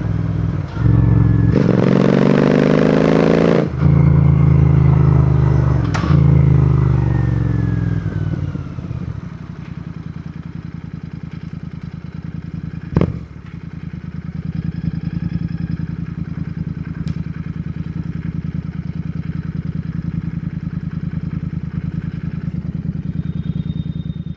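Royal Enfield Continental GT 650's parallel-twin engine and exhaust. It revs up in the first few seconds, then falls steadily in pitch as the bike slows. A sharp click comes about halfway through, after which the engine settles to a steady, evenly pulsing idle.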